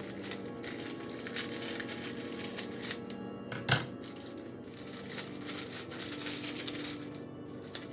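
Toaster pastry package being opened: its wrapper crinkling and tearing in short crackles, with one sharp crack near the middle.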